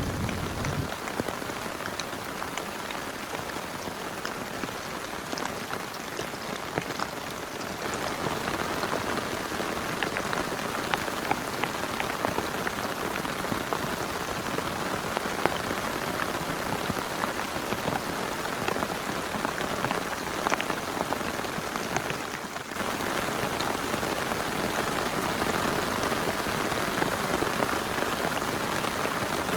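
Heavy rain falling steadily on a tent, a continuous hiss dotted with countless small drop taps. It grows louder about eight seconds in, dips briefly and comes back louder near the end.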